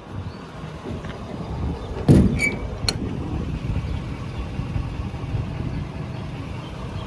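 Ford 6.7 L Power Stroke diesel truck engine idling with a low, steady rumble. About two seconds in there is a sharp clunk, then two quick metallic clicks, one with a brief ring.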